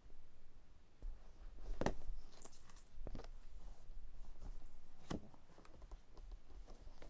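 Hands handling and opening a boxed gift set's packaging: three sharp knocks, the first about two seconds in, amid scratchy rustling.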